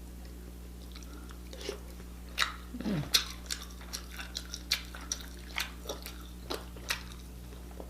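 Close-up wet chewing and lip smacks while eating crab meat: irregular short clicks a few times a second, starting about a second and a half in, over a low steady hum.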